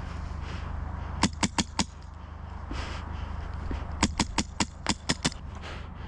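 Phylax ONE HPA airsoft rifle firing fast semi-auto shots as sharp cracks: four about a second in, then seven more near the end, about five a second.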